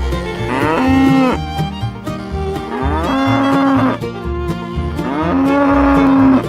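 Cow mooing three times, each moo about a second long with a rising start and a held tone, over background music with a steady beat.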